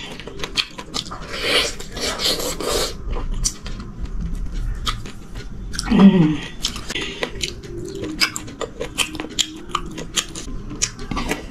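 Close-miked chewing of a handful of rice eaten by hand, with many wet mouth clicks and smacks. About six seconds in comes a short voiced sound, the loudest moment, followed by a steady low hum of the voice for a couple of seconds.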